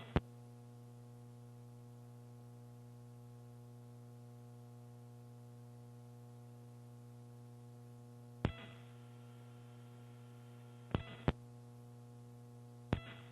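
Steady electrical hum on the open launch-control communications loop, broken by a few sharp clicks: one about 8.5 s in, two close together around 11 s, and one near the end, like the net being keyed.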